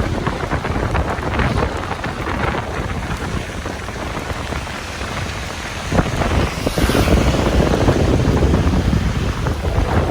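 Rain falling in a thunderstorm, with wind rumbling on the microphone. About six seconds in there is a sharp crack, and the sound grows louder after it.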